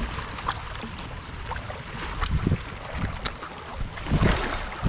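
Wind buffeting the microphone: a steady low rumble that swells in two stronger gusts, with a few small clicks of handling.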